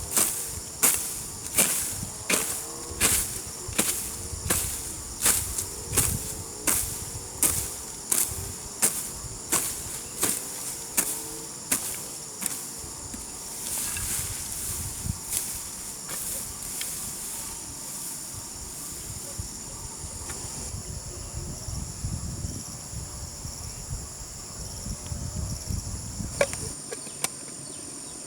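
Garden hoe chopping into grassy soil in a steady rhythm, about three strikes every two seconds, stopping about twelve seconds in and followed by softer, irregular low thuds and rustling. Insects buzz steadily throughout.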